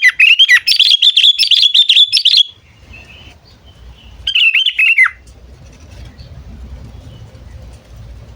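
Sooty-headed bulbul calling: a loud, quick run of chirping notes for about two and a half seconds, then a shorter burst about four seconds in. A faint low rumble sits underneath in the gaps and afterwards.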